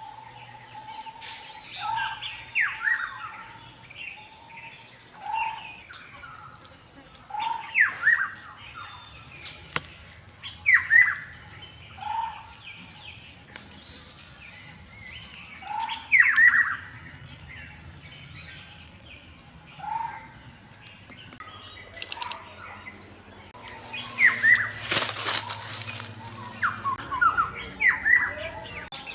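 Birdsong: one bird repeats the same short phrase every few seconds, a low note followed by quick falling whistles, over other birds chirping. About three-quarters of the way through comes a loud, noisy rustle lasting a second or two.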